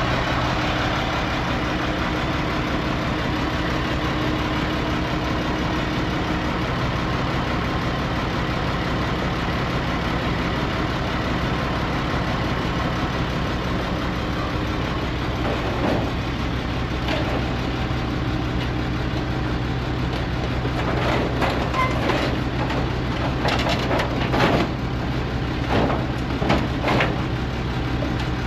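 Truck engine running steadily, with short rattles and knocks coming in about halfway through and growing more frequent near the end.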